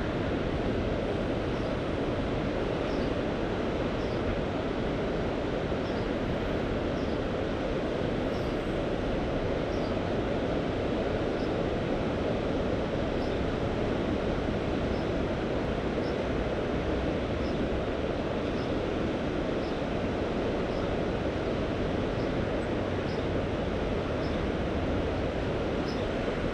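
Mediterranean sea surf and wind making a steady, even rushing noise with no distinct wave breaks standing out, with faint small high ticks about once a second.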